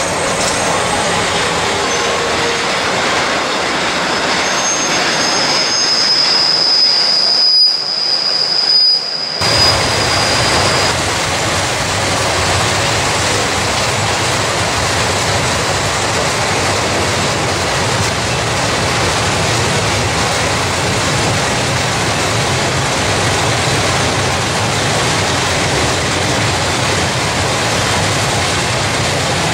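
Railway coaches rolling past on the rails, with a high, steady wheel squeal for several seconds in the first third, then an even running noise of wheels on track.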